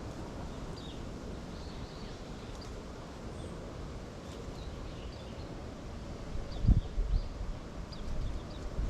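Small birds calling in short, high chirps scattered through a steady outdoor background. Low rumbling gusts of wind on the microphone about two-thirds of the way through and again near the end are the loudest sounds.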